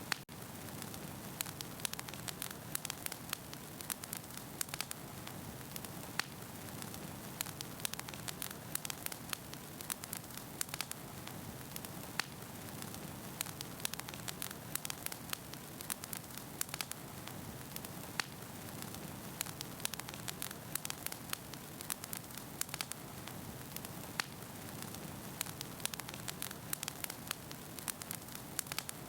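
Wood fire burning in a fireplace: a steady soft hiss with frequent sharp pops and crackles of the burning logs.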